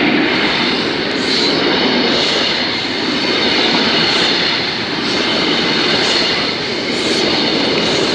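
The Mark 3 coaches of a High Speed Train passing close by at speed: a steady loud rumble of steel wheels on rail, with a regular light clatter as the wheelsets pass.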